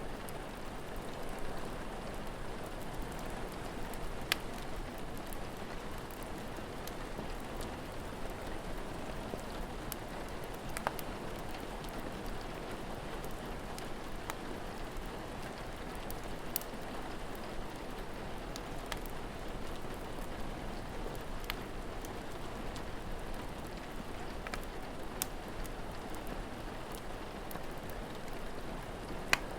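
Steady rain falling, an even hiss, with a few sharp pops from a crackling wood fire every few seconds.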